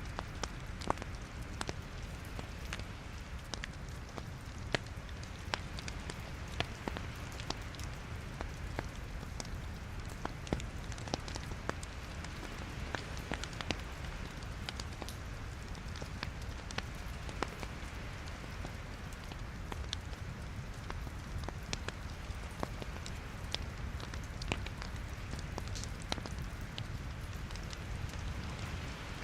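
Wood fire in a fireplace burning steadily, logs crackling with frequent irregular sharp pops over a low, even rumble of the flames.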